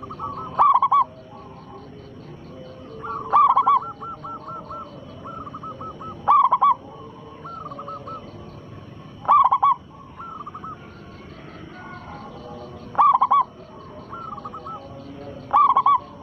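Zebra dove (perkutut) cooing: a loud, short phrase of several notes about every three seconds, six in all, with fainter cooing in between.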